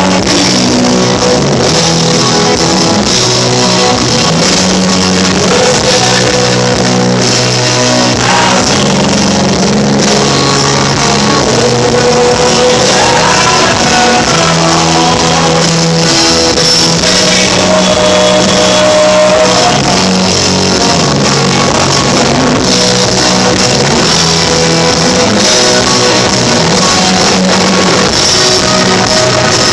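Live rock band playing an instrumental break, with a lead electric guitar playing sustained, bending notes over steady bass and drums, recorded on a phone.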